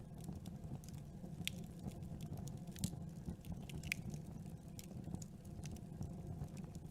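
Campfire burning: wood crackling in irregular sharp snaps over a low, steady rumble of the fire, with two louder pops about three and four seconds in.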